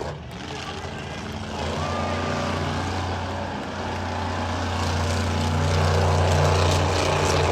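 Monster truck engine running at low revs with a steady, deep note, growing louder in the second half.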